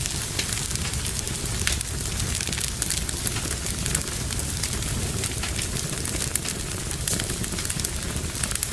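Wood fire in a fireplace crackling with frequent irregular small pops over a steady low rumble of the flames.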